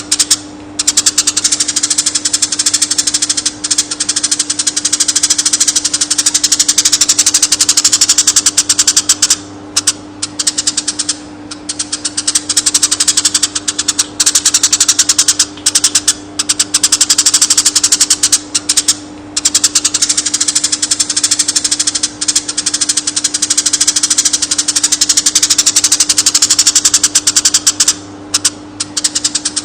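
Eurasian tree sparrow singing a long rolling trill of very rapid high chirps, broken only by a few brief pauses, over a steady low hum.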